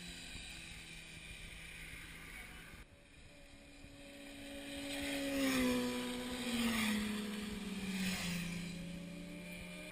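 Sport motorcycle engine approaching and passing, growing louder to a peak in the middle. Its engine note drops in pitch in steps as it goes by, then fades away.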